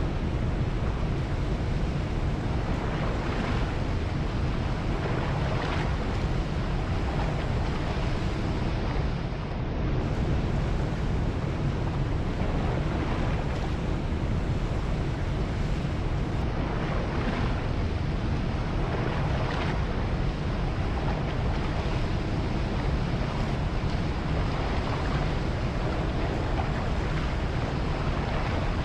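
Ocean surf washing steadily, with faint swells every few seconds, and wind rumbling on the microphone.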